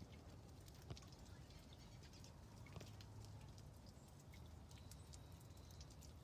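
Near silence: faint outdoor background hum with a few soft clicks, about a second in and again near three seconds.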